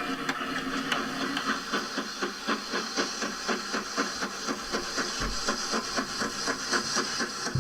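A 00 gauge model train running on the layout: a steady electric motor whir with a regular chuffing beat, about five a second. A brief low bump comes about five seconds in.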